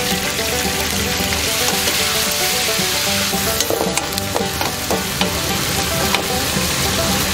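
Pieces of meat sizzling as they fry in hot oil in a nonstick wok. From about halfway a spatula stirs them, with light clicks and scrapes against the pan.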